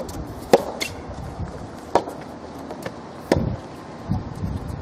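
Soft tennis rally: the soft rubber ball is struck by rackets in three sharp pops about a second and a half apart, with lighter ticks between. Some dull low thumps come near the end.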